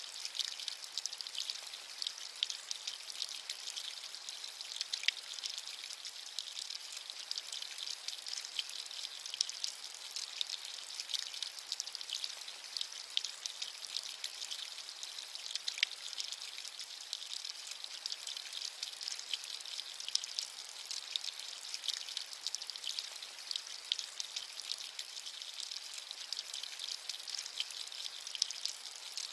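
Steady rain falling, a continuous high hiss dotted with the small ticks of individual drops.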